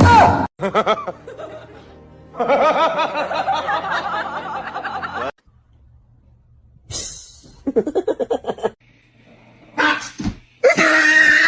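Person laughing in rapid bursts, with music, in several short segments separated by brief near-silent gaps.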